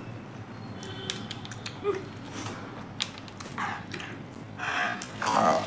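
Mouth noises of someone eating a lemon: faint chewing and sucking clicks, with a few louder hissy sounds near the end.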